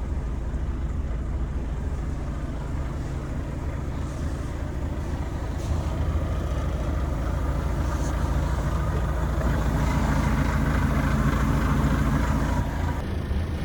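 Volvo FH 500 gas-fuelled truck engine running steadily, growing louder from about halfway and then easing off again near the end.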